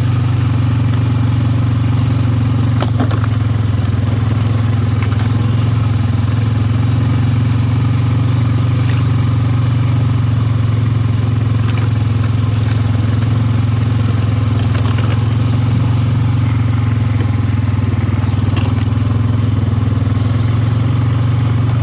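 ATV engine running at a steady, unchanging speed while riding a dirt trail, with a few brief clicks or scrapes here and there.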